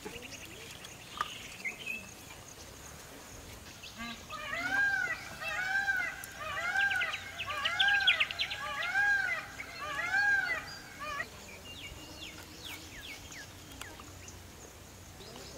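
Birds calling: a run of repeated rising-and-falling notes, about one a second, for several seconds in the middle, with a quick chattering trill partway through.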